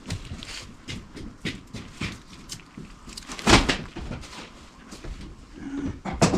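A scattered series of light clicks and knocks, with a loud sharp knock about three and a half seconds in and another near the end.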